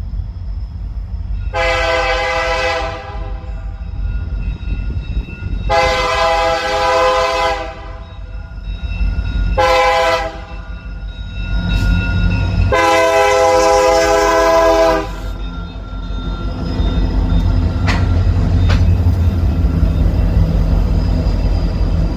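Freight train's diesel locomotive horn sounding the grade-crossing signal: two long blasts, one short, one long. After the horn, the low rumble of the passing train grows louder.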